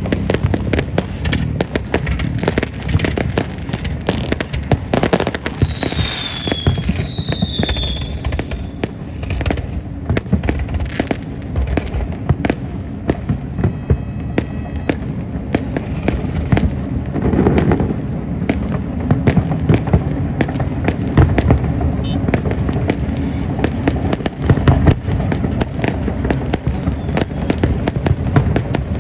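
A fireworks display: continuous crackling and banging from many shells bursting in quick succession, with a few short whistles about six to eight seconds in.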